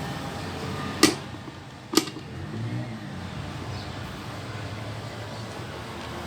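Two sharp knocks about a second apart, over a steady low hum.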